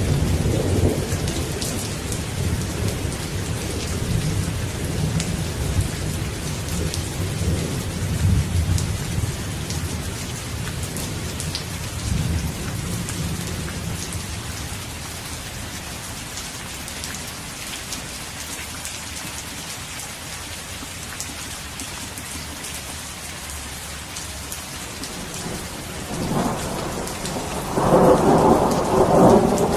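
Steady rain falling with thunder: a low rolling rumble that fades out over the first half, then a louder clap of thunder rumbling in about four seconds before the end.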